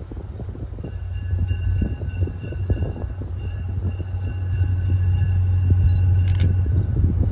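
MBTA diesel commuter train approaching. A steady low engine drone grows louder as it nears, with faint steady high-pitched tones over it.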